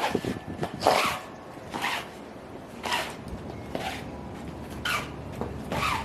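High-heeled shoes stepping at a slow, even pace, about one step a second, seven steps in all.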